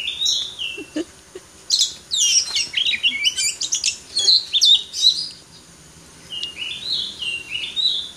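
Oriental magpie-robin (kacer) singing. It gives short whistled phrases that step up and down in pitch, then from about two seconds in a rapid run of varied, high, chattering notes lasting about three seconds. The stepped whistled phrases return near the end.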